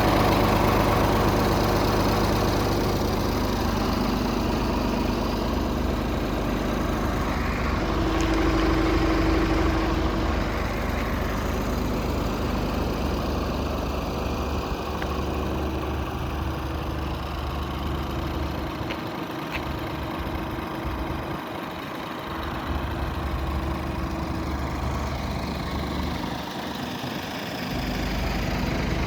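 Scania R450's 13-litre inline-six diesel idling steadily.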